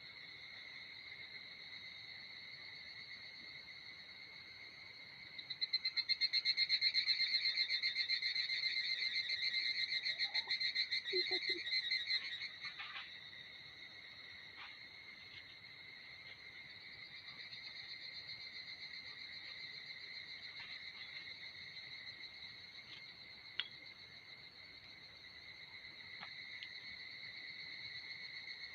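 Insects trilling steadily in a high, continuous chorus. A louder pulsing trill joins for about seven seconds from around five seconds in, and there is a sharp click about two thirds of the way through.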